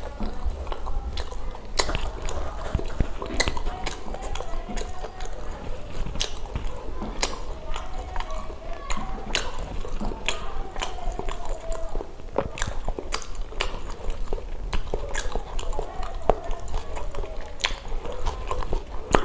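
A person eating pav bhaji close to the microphone: chewing and biting with many sharp, irregular mouth clicks, over a steady low hum.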